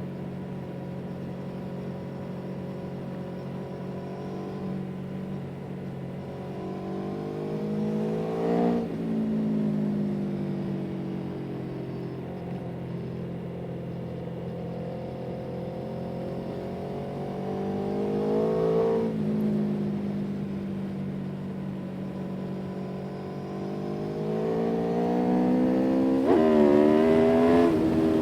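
A vehicle engine pulling under load. Its pitch rises gradually and then falls abruptly three times, as at gear changes.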